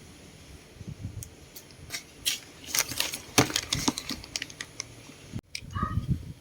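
Irregular light clicks and taps, like small hard parts and tools being handled, thickest around the middle; the sound cuts off abruptly a little after five seconds in.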